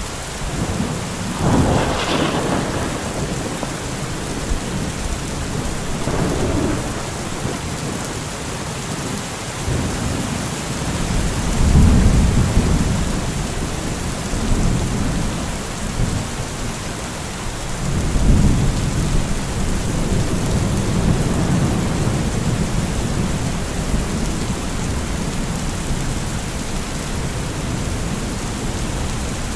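Thunderstorm: steady heavy rain with thunder rolling over it, a sharper clap about two seconds in and deep rumbles that swell and fade, the loudest near the middle and again about two-thirds through.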